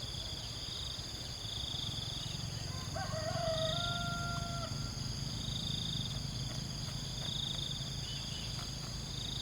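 Outdoor insect chorus: a steady high whine with a pulsing chirp that swells about every second and a half. A single drawn-out animal call comes about three seconds in, over a steady low rumble.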